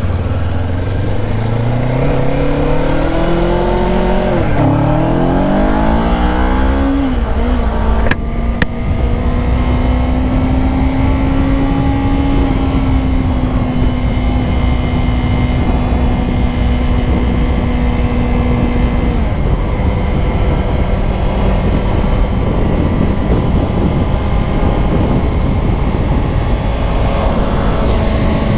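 Kawasaki Ninja 500's parallel-twin engine accelerating through the gears, its pitch climbing and dropping back at upshifts about four and a half and seven seconds in. It then holds a steady pitch while cruising, over heavy low wind rumble, with a sharp click about eight seconds in.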